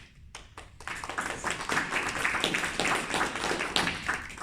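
Small audience applauding: a few scattered claps, then about three seconds of dense clapping that dies away near the end.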